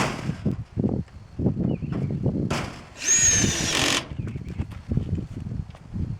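A power drill runs for about a second, driving a screw, with a high motor whine, about three seconds in.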